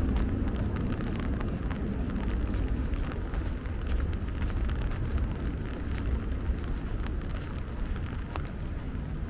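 Steady rain in a city street, with scattered drops ticking sharply over a constant low rumble.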